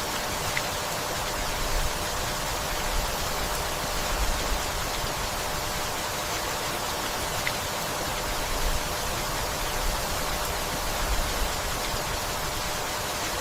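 Steady rainfall hiss, even and unbroken, with soft low rumbles swelling now and then underneath.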